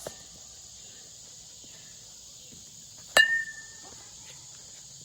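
A single sharp ping of a Marucci Cat 7 youth metal baseball bat hitting a ball about three seconds in, ringing briefly. A steady high insect buzz runs underneath.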